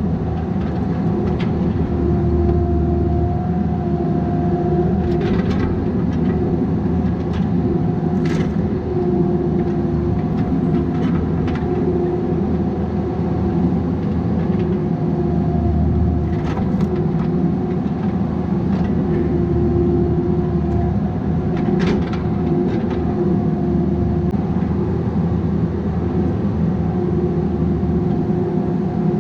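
Bobcat 337G mini excavator running under working load, its engine and hydraulic whine steady with swells every few seconds as the hydraulics are worked. A few short knocks stand out over it.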